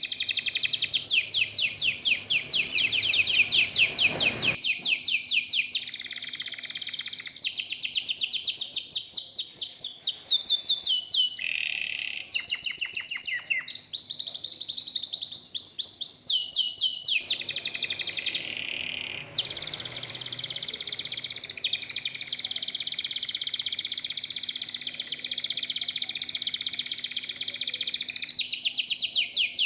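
Local canary singing a continuous, intense song of very fast trills and rolls, switching to a new phrase every few seconds.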